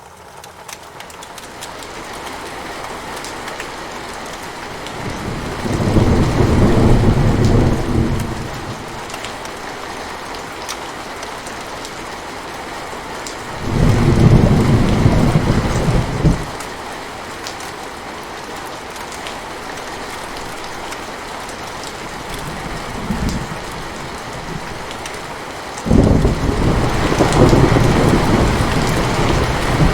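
Steady rain with rolling thunder. The rain fades in at the start, and deep rumbles of thunder swell about five seconds in, again around fourteen seconds, briefly and more weakly near twenty-three seconds, and from about twenty-six seconds to the end.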